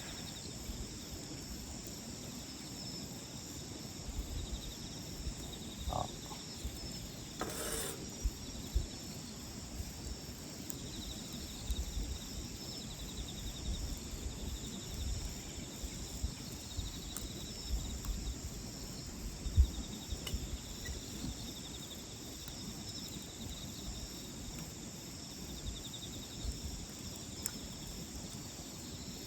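Insects, crickets among them, chirping steadily over the low crackling and occasional pops of a wood campfire, with the sharpest pop about 20 seconds in.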